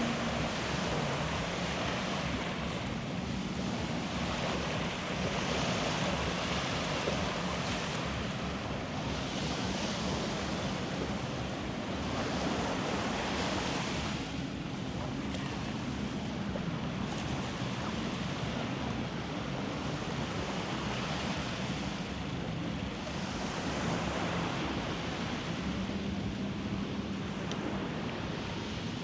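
Beach surf washing in, swelling and easing every few seconds, with wind on the microphone and a steady low hum underneath.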